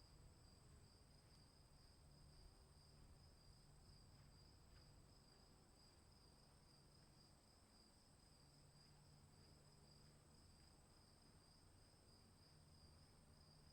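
Faint, steady trilling of crickets, two high pitches held without a break, over a soft low rumble.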